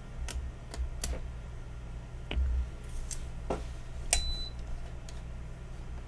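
Scattered light clicks and taps of soldering tools being handled on a bench, with a short high beep about four seconds in, the sound of a button press on the hot-air rework station's control panel.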